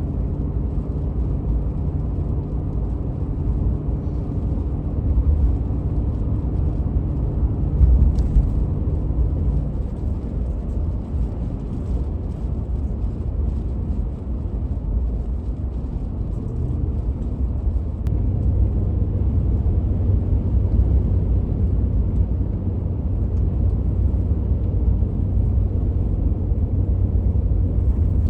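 Vehicle engine and road noise heard from inside the cab while driving, a steady low rumble. The engine's pitched hum fades at about ten seconds, and a deeper hum comes in near eighteen seconds.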